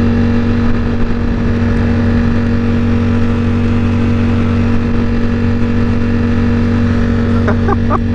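Ducati Panigale V4 S's 1103 cc V4 engine running at a steady cruising speed, its pitch holding level, with road and wind noise.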